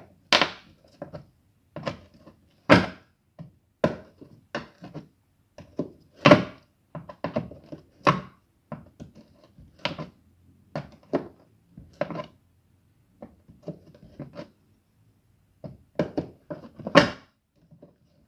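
A series of irregular knocks and clicks, roughly one a second, some sharper and louder than others, as parts of a washing machine are handled.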